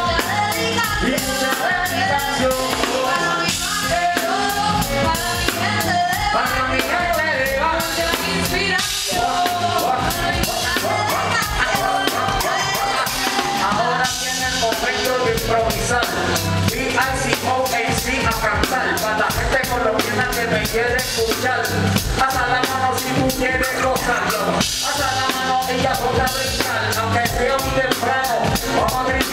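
Live band playing a song through the PA at a sound check, with a drum kit keeping a steady beat under wavering melodic lines.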